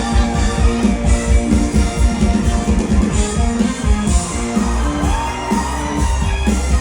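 Rock band music with guitar over strong bass and drums, playing steadily.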